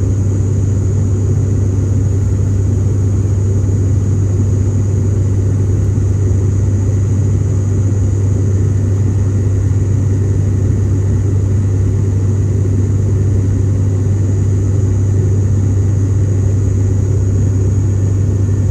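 ATR 72-600 turboprop's propellers and Pratt & Whitney PW127 engines, a loud steady drone heard inside the passenger cabin, dominated by a deep unwavering propeller hum with a rushing noise over it.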